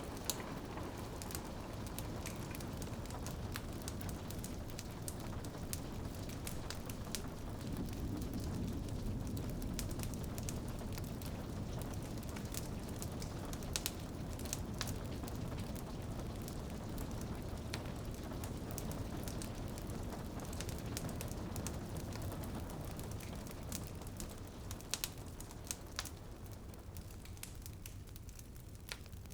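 Wood fire crackling and popping in a fireplace, with rain on a window as a steady hiss behind it; the rain thins out near the end.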